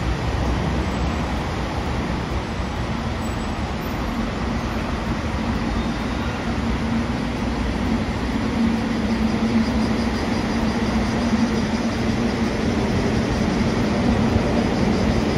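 A train running by with a steady rumble. A low hum comes in a few seconds in and grows a little louder toward the end.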